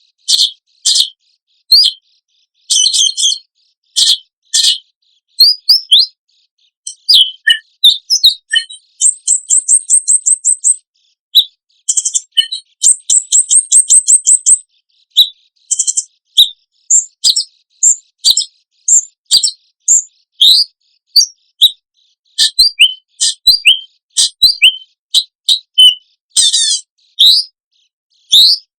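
Songbird training recording of sharp, high chirps, whistled slurs and rapid trills of about ten notes a second, each phrase cut apart by clean silent gaps. These are the piercing 'tembakan' phrases used to teach caged songbirds their song.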